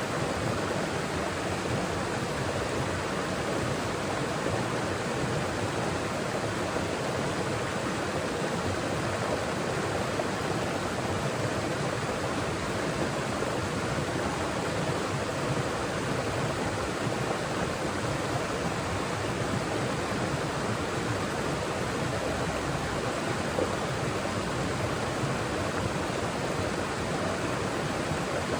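Mountain forest stream flowing and splashing over rocks: a steady, even rush of water with no change.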